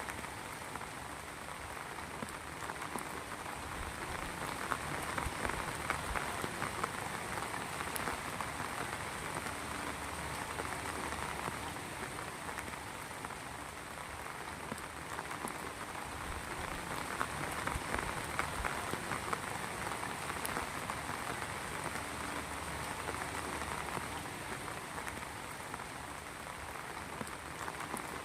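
Steady heavy rain falling on a surface, a dense patter of many drops that swells a little and eases again.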